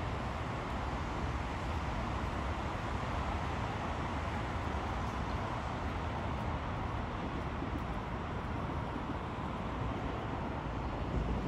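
Shinkansen train running along an elevated viaduct: a steady rushing noise over a low rumble.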